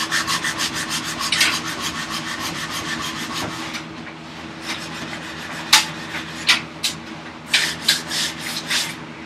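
Hand tool rubbing along the edge of a wooden vise chop, softening the edges: quick scratchy rasping strokes, about five a second, for the first few seconds, then slower single strokes after a short pause.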